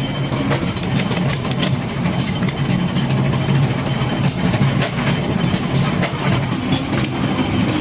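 Workshop machinery running with a steady low hum, with scattered sharp metallic clicks and knocks throughout.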